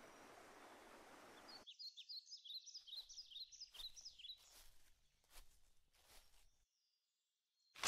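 A faint, even hiss of a garden fountain's spray that cuts off abruptly about a second and a half in. Then a small bird chirps rapidly for about three seconds, followed by rustling as people push through leafy branches and undergrowth.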